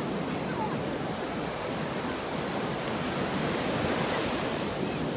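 Sea surf washing on the shore: a steady rush of breaking waves that swells slightly about four seconds in.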